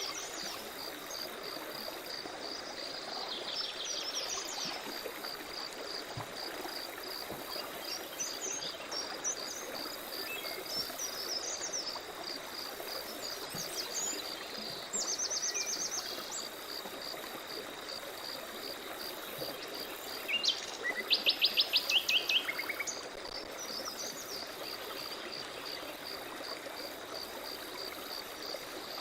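Forest soundscape: birds calling and singing at intervals over a running stream and an insect's steady, evenly pulsing chirp. The loudest is a quick run of repeated bird notes about two-thirds of the way through.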